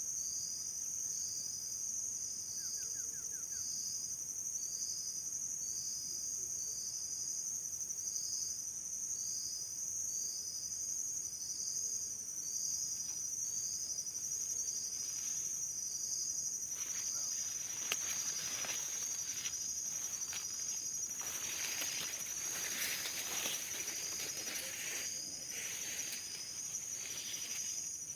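Insects chirring outdoors: a steady high-pitched drone with a pulsed chirp repeating about every two-thirds of a second. From about halfway, irregular scratchy rustling noise joins in.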